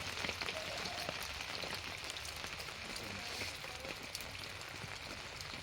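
Rain falling: a steady hiss dotted with many small drop ticks.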